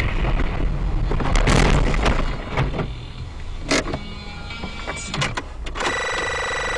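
Dashcam recording of a car on the road, with several knocks in the first two seconds and a sharp click a little after the middle. In the last second a steady pitched tone like a horn sounds.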